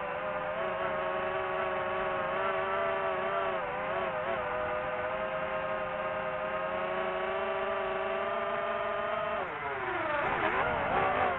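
Quadcopter drone rotors whirring steadily with a slight waver. Near the end the pitch dips and climbs back as the motors change speed.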